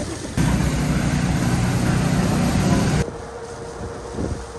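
City street traffic, a steady rumble of vehicles that changes abruptly twice, and goes quieter from about three seconds in.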